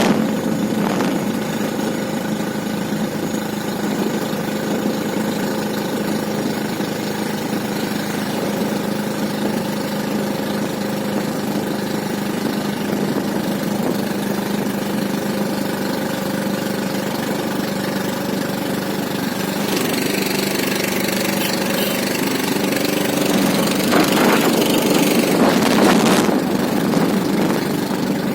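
An engine running steadily at an even pitch, a little louder for a couple of seconds near the end.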